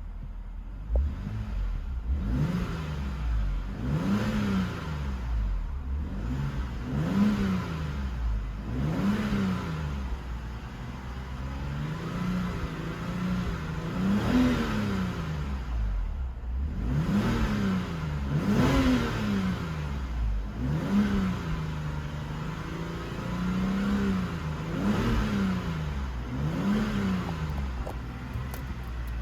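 BMW N52 3.0-litre inline-six engine from a 2007 X5 E70 3.0si being blipped from idle over and over, every second or two. The revs rise and drop straight back each time, as in a free-revving test run of the engine.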